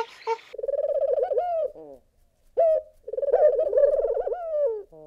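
Feral pigeon cooing: two long rolling coos, each trailing off in falling notes, with a short note between them. A few brief high squeaks come in the first half second.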